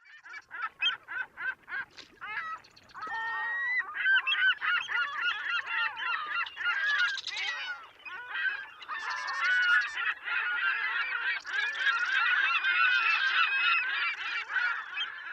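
A flock of geese honking: separate short calls in quick succession at first, then many overlapping calls from about three seconds in.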